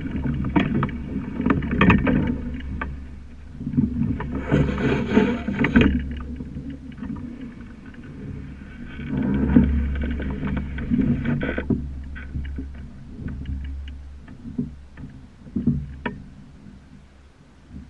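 A sailing dinghy under way: water rushing and slapping against the hull, with frequent small knocks and clicks. It swells louder twice, once about four seconds in and again about nine seconds in.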